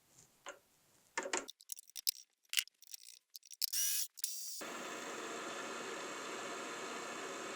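Metal clicks and knocks from tools and parts being handled at the machine, then a milling machine's motor starting about halfway through and running steadily with an even whir.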